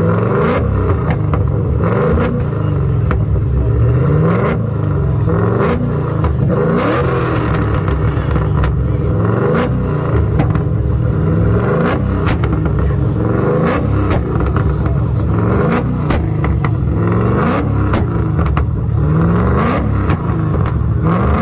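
Car engine revving over and over, its pitch climbing again every one and a half to two seconds, with many short sharp cracks mixed in.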